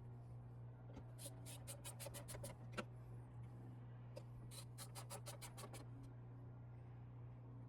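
Faint small clicks and scratching in two quick flurries, over a steady low hum: the plastic parts of a truck's folding side-mirror assembly being handled and fitted during reassembly.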